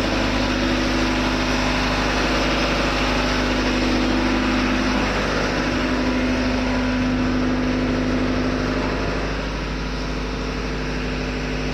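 Ship's diesel engine running steadily, a constant machinery drone with a strong low hum, easing slightly in level about nine seconds in.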